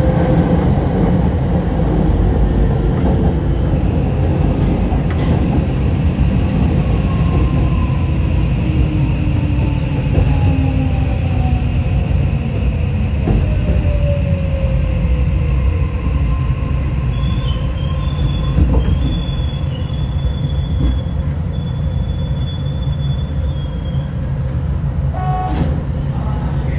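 Hokushin Kyuko 7055F electric train running on the rails with a steady low rumble. Its motor whine falls in pitch over several seconds as the train slows, and a thin, high wheel squeal sets in about two-thirds of the way through, with a few clicks near the end.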